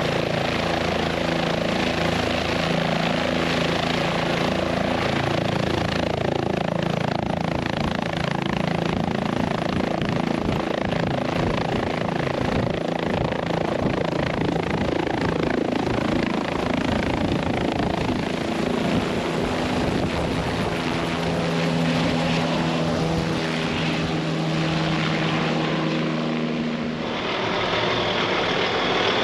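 Helicopter's rotor and engine running steadily, with a change in the sound near the end.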